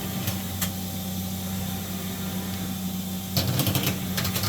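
Matsuura MX-520 5-axis vertical machining center running its X axis at rapid traverse: a steady machine hum with a couple of clicks early on. About three and a half seconds in comes a burst of rattling from a telescoping way cover, which is making a little bit of noise as it moves.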